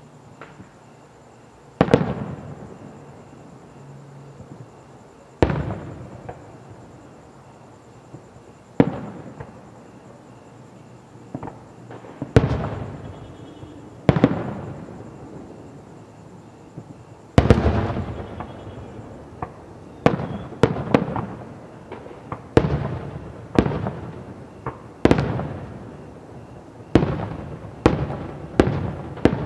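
Aerial fireworks shells bursting with sharp bangs that echo and die away. A few seconds apart at first, then coming faster from about halfway, with small crackles and pops between the big reports.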